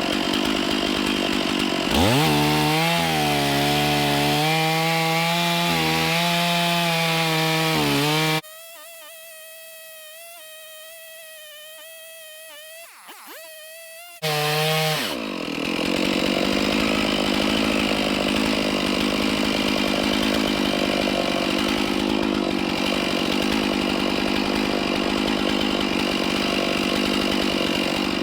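Stihl chainsaw in a Granberg Alaskan mill ripping through a large white pine log at full throttle. About two seconds in its pitch shifts into a steady engine note, the sound cuts abruptly to a faint hum for about six seconds, then the saw comes back at full throttle and keeps cutting.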